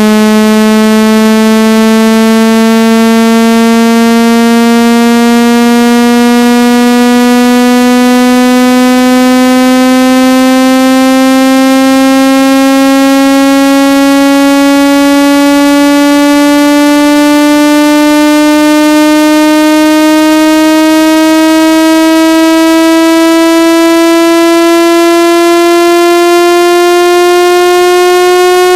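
Synthesized buzzy test tone slowly sweeping upward in pitch, played loud to vibrate trapped water out of a phone or earphone speaker.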